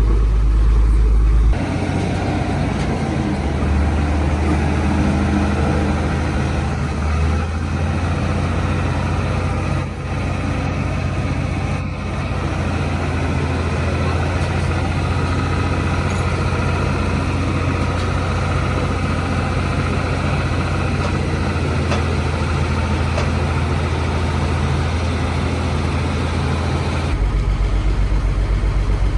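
Heavy diesel engine of a Dongfeng cement truck, freshly rebuilt, running steadily at a low, even speed. The sound changes abruptly about a second and a half in and again near the end.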